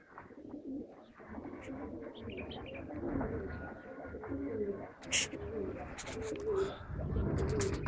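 Domestic pigeons cooing, repeated wavering low calls, with a sharp click about five seconds in and a low rumble building near the end.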